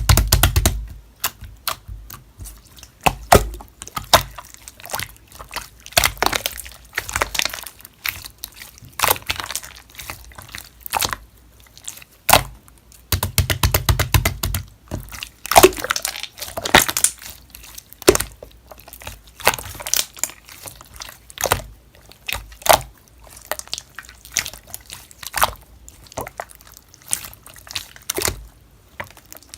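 Slime being squished and stretched by hand, giving wet clicks, pops and squelches in irregular bursts.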